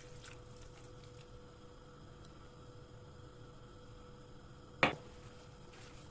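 Quiet kitchen handling over a faint steady hum, with one sharp knock about five seconds in.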